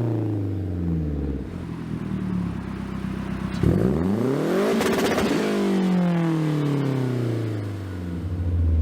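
Four-cylinder performance car engine revving: the pitch drops off early on, then the engine revs sharply up about three and a half seconds in and falls away slowly over the next few seconds.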